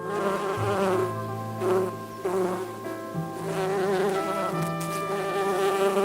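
Buzzing insect wings: a steady, wavering drone.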